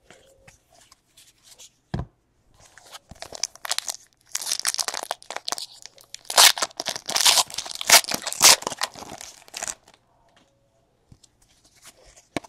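Trading card pack wrappers being torn open and crinkled, a dense stretch of crackly tearing from about four to ten seconds in, preceded by a single knock about two seconds in.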